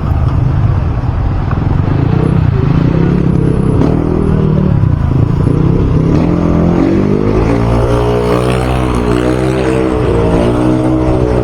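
Motorcycle engine running while riding. In the second half its pitch rises and falls several times as the throttle is opened and eased.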